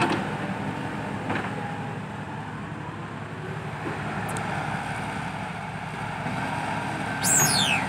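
Heavy dump-truck diesel engines running steadily at a working pit, with a couple of short knocks early on and a loud, high whistle that falls quickly in pitch near the end.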